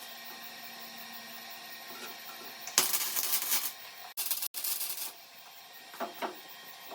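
Welding arc crackling in two short bursts of about a second each, then a brief weaker burst near the end. These are stitch welds being laid along a car's steel quarter panel.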